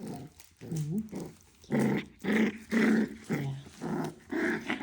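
Five-week-old doodle puppies growling in a run of short bursts, about two a second.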